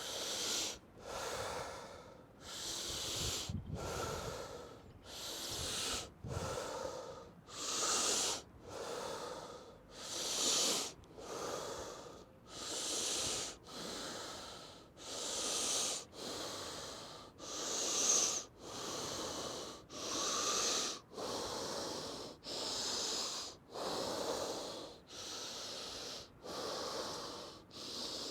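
A man taking deep, powerful breaths in and out in a Wim Hof method breathing round: a steady rhythm of rushing airy breaths, roughly one full inhale and exhale every two seconds.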